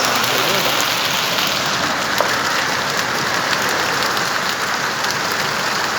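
Heavy rain falling steadily, with scattered sharp ticks of drops striking a surface.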